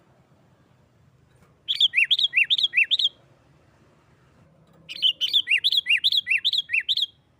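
Sooty-headed bulbul singing its agitated 'nggaruda' fighting song: two bursts of quick chirps alternating between a high and a lower note, the second burst longer, about a second and a half after the first.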